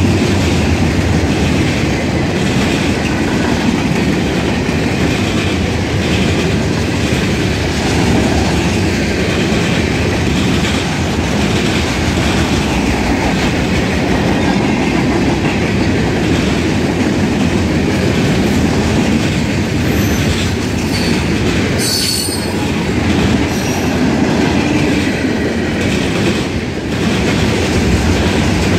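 Freight cars of a long mixed freight train rolling past close by at steady speed: a continuous loud rumble with wheels clacking over the rail joints. A brief high-pitched wheel squeal comes about three-quarters of the way through.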